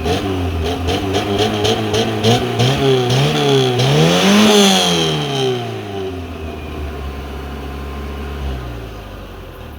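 Yugo car engine revved through its exhaust: a few quick throttle blips, then one bigger rev that rises and falls back about four and a half seconds in, settling to a steady idle.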